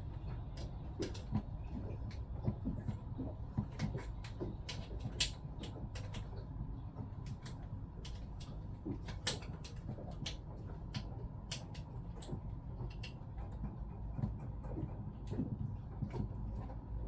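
Irregular small clicks and knocks of pump parts and tools being handled during reassembly, over a low steady hum.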